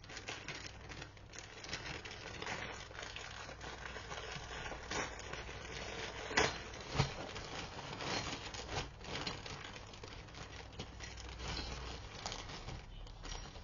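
Packaging rustling and crinkling as new bird toys are handled and unwrapped, with scattered small clicks and knocks, two sharper ones about six and seven seconds in.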